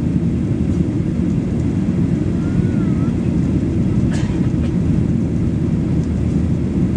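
Boeing 737 Next Generation jetliner after takeoff: a steady, unchanging low rumble of its engines, with a faint click about four seconds in.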